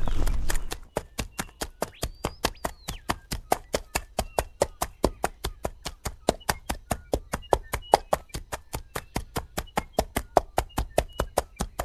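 Horse hooves clip-clopping on hard ground in a steady, even beat of about four to five sharp knocks a second, after a brief burst of noise at the start.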